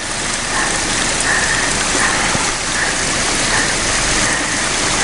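Steady rush of running water, like a small waterfall or fountain splashing, with no change in level.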